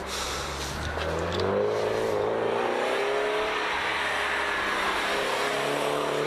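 Porsche 924S's 2.5-litre four-cylinder engine accelerating toward the listener and passing close by. The engine's pitch climbs over a couple of seconds, levels off, then rises again as the car goes past near the end.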